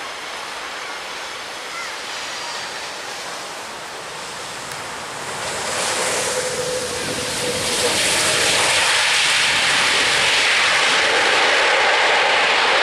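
Surf washing on the beach, then from about five seconds in a jet airliner's engines build into a loud, steady roar that drowns out the waves.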